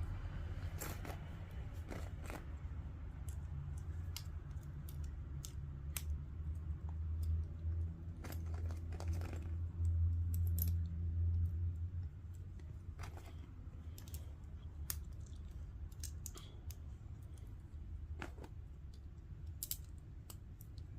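Plastic Lego bricks clicking and rattling as they are handled and pressed together, in scattered single clicks. A steady low hum runs underneath and drops in level about twelve seconds in.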